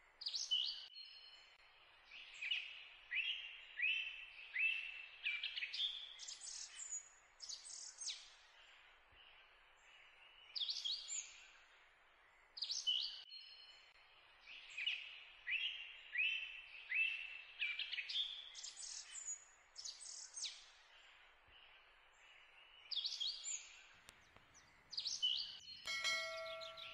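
Songbird singing: quick, bright chirping phrases repeated again and again over a faint steady hiss. Near the end comes a short chime, the sound effect of a subscribe-button animation.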